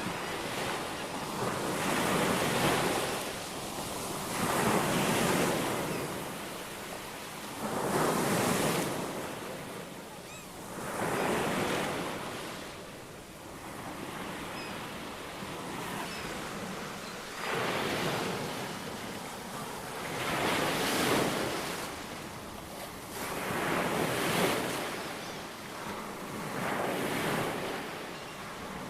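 Ocean waves breaking and washing ashore, swelling and fading in surges about every three seconds, with a calmer lull in the middle.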